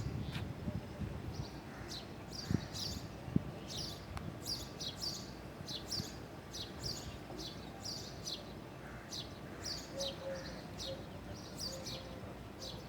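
Small birds chirping over and over, short high calls that sweep downward, over a steady low background rumble, with two sharp clicks a few seconds in.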